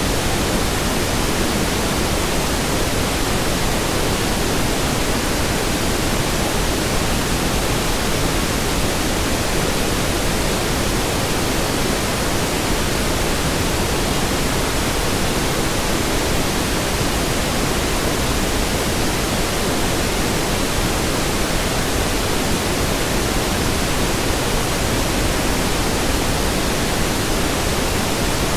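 Steady pink noise: an even, unchanging hiss spread across the whole range, with no breaks or variation.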